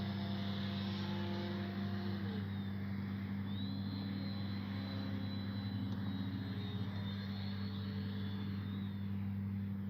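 Brushless electric motor (3136 1200KV) and propeller of an FMS Ranger 1220mm RC plane in flight: a steady drone with a whine that drops in pitch about two seconds in, and a higher whine that rises and later falls away in the middle.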